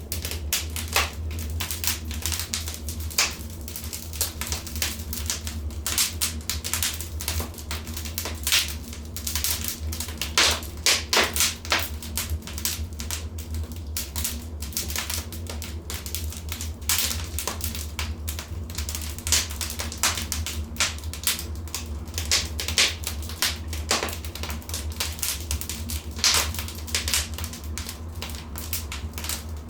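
Wood fire crackling in a fireplace: irregular sharp pops and snaps over a steady low hum, with a cluster of louder pops about ten to twelve seconds in.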